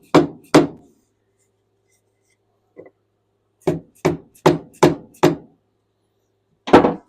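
Hammer blows on a 2x4 block, driving a new axle seal into a skid steer's axle tube. Two strikes near the start, a light tap, then a quick run of five and one last strike near the end.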